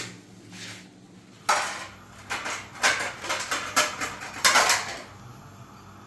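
A run of clattering knocks and clinks, about eight strokes over some three seconds, like household objects being handled.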